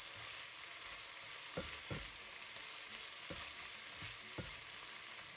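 Chicken and onion sizzling steadily in a frying pan while being stir-fried with a slotted spatula, with about four knocks of the spatula against the pan.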